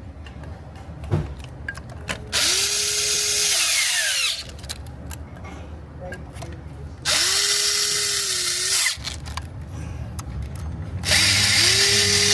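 Power tool gun running down the oil filter housing bolts on a Jeep 3.6 V6: three runs of about two seconds each, the motor spinning up, holding and winding down.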